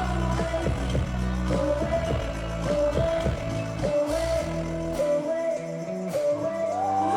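Live band playing a pop-rock song with a woman singing long, held notes over a bass line. The bass and low end drop out about five seconds in, leaving the vocal and higher parts.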